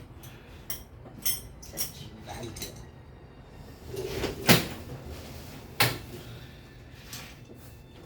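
A string of irregular knocks and clatters from objects being handled, with two louder knocks about four and a half and six seconds in.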